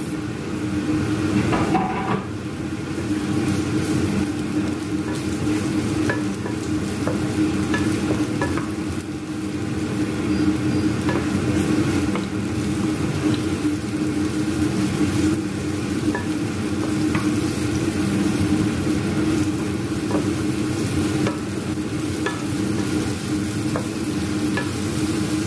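Sliced onions and minced garlic sizzling in olive oil in a nonstick frying pan, stirred and scraped with a wooden spatula. Under it runs the steady hum of a kitchen exhaust fan, which is really noisy.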